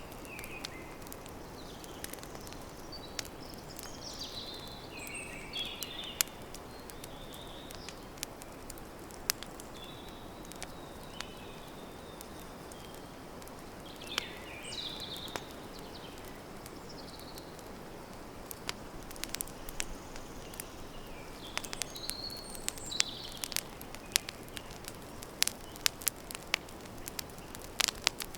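Wood campfire crackling, with frequent sharp pops and snaps over a steady low hiss; the pops come thicker near the end. Small birds chirp briefly several times in the background.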